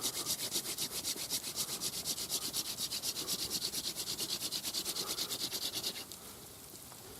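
Fast, even back-and-forth rubbing on wood, about nine strokes a second, that stops about six seconds in.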